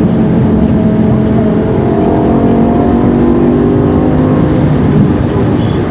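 BMW M5's V10 engine through an aftermarket Eisenmann exhaust, heard from inside the cabin while driving. It runs at a steady loud level, its pitch climbing slightly through the middle and then levelling off.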